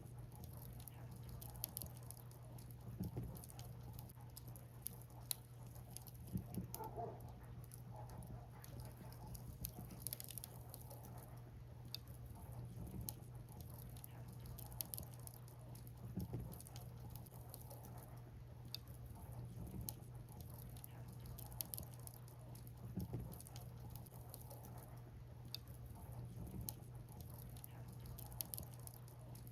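Firewood burning in a bonfire, crackling with irregular sharp pops over a steady low hum.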